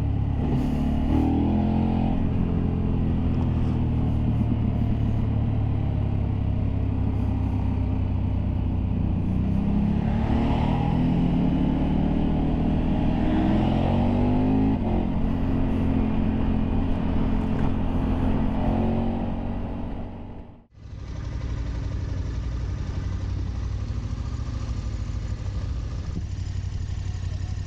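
Motorcycle engine under way on an open road, with wind rushing over the microphone. The engine pitch rises and falls as the bike accelerates and changes gear. About twenty seconds in, the sound cuts out abruptly and comes back as a steadier, duller engine sound.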